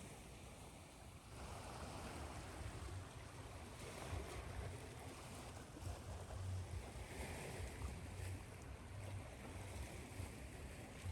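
Ocean surf washing in and out in slow swells every few seconds, over a steady hiss of white noise with a low rumble beneath.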